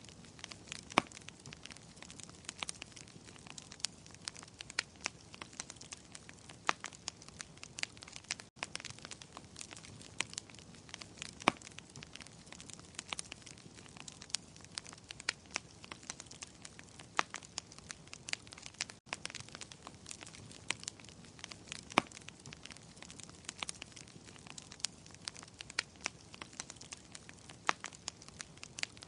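Wood fire crackling in a fireplace: a steady low hiss with irregular sharp pops, a few of them loud. The sound drops out for an instant twice.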